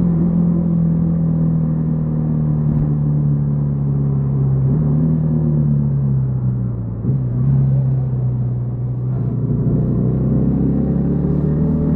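Yamaha XTZ 150 Crosser S's single-cylinder engine running under way. The pitch eases slowly downward, steps up about five seconds in, dips briefly around seven seconds, then climbs again near the end.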